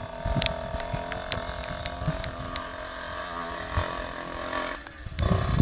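Casal motorcycle's two-stroke engine running at a steady idle. Just before the end it briefly dies down, then picks up louder.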